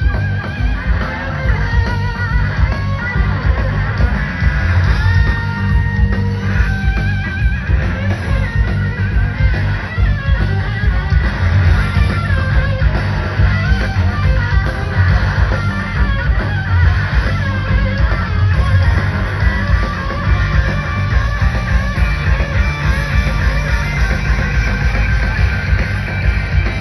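Live rock band playing an instrumental jam: sustained, wavering lead electric guitar lines over heavy bass and drums.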